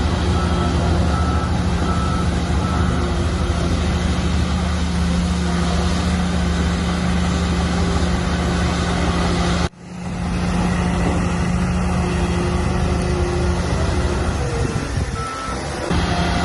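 Diesel engines of heavy earthmoving machinery, a bulldozer and dump trucks, running steadily under load. A reversing beeper sounds in evenly spaced beeps over the first few seconds. The sound drops out abruptly for a moment a little before ten seconds in.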